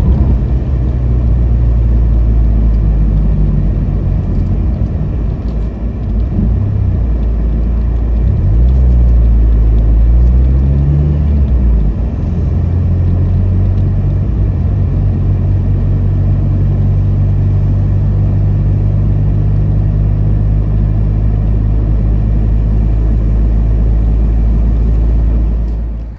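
Ford Escort RS Cosworth's turbocharged four-cylinder engine driving on the road: a steady low drone that climbs in pitch as the car accelerates about a third of the way in, then drops back and settles to a steady cruise. It cuts off suddenly at the end.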